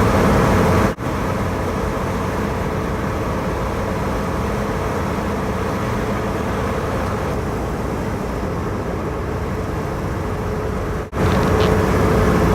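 Porsche 914 driving along, with steady engine and road noise. The sound drops out abruptly about a second in and again near the end.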